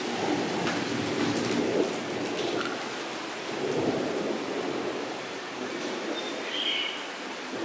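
Steady rain falling into a shallow puddle on paved ground, with scattered individual drop splashes over a low, uneven rumble. A short high chirp comes in near the end.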